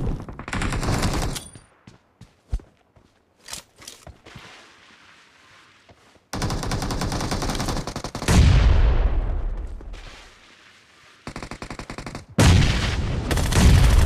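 Video game automatic gunfire in several bursts of rapid shots, with quieter gaps between them. The loudest burst, about eight seconds in, carries a deep rumble that fades away.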